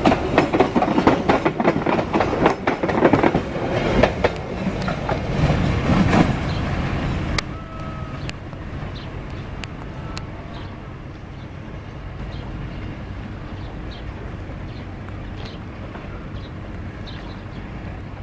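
Passenger coaches passing close, their wheels clattering rapidly over the rail joints. About seven seconds in, the sound drops suddenly to a fainter, steady rumble as the train moves away.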